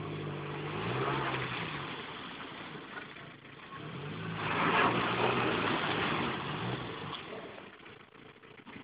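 Car engine revving in two surges, the second around four seconds in and louder, with a hiss of tyres in slush; both fade near the end.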